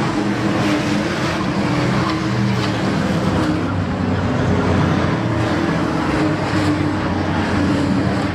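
Several race trucks' engines running together at speed around the track, a continuous loud drone of layered engine notes that rise and fall slightly as the trucks lap.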